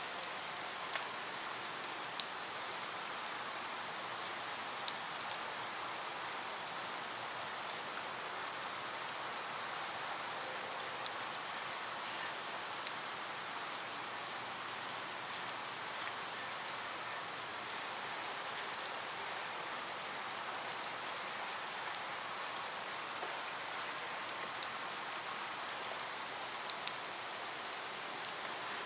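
Steady rain falling, with a dense patter of individual drops ticking against a surface.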